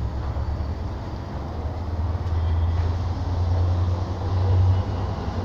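Freight train wagons rolling past close by on the rails: a steady low rumble that grows louder through the second half and eases slightly near the end.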